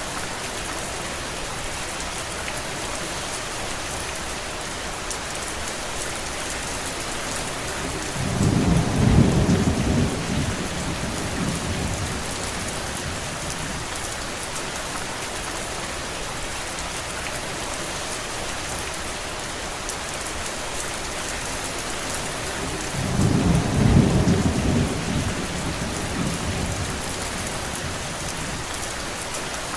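Steady rain falling, with two low rolls of thunder, each lasting a few seconds: one about a third of the way through and another about two-thirds through.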